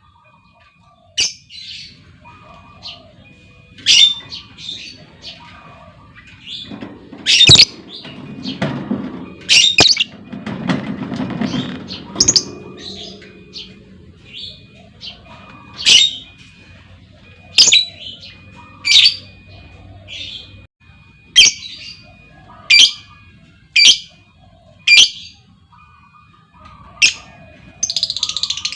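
Lovebird giving short, shrill single calls, one every second or so, the female lovebird's calling used as a lure to set other lovebirds chattering.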